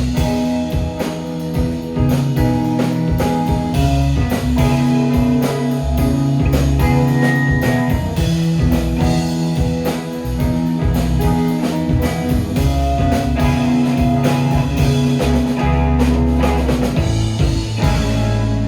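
Live rock band playing with electric guitar, bass and drum kit, the drums hitting steadily. Near the end the drumming stops and a low note rings on.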